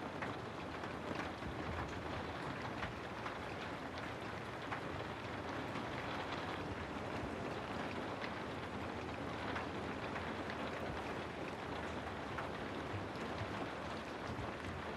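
Steady rain falling on a house, a continuous hiss with scattered sharper drop hits.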